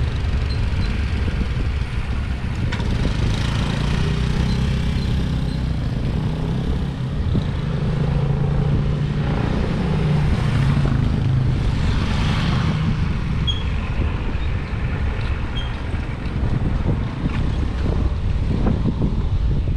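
Wind buffeting the microphone of a camera riding along on a road bike, with steady road noise. A low hum swells about seven seconds in and fades after about thirteen.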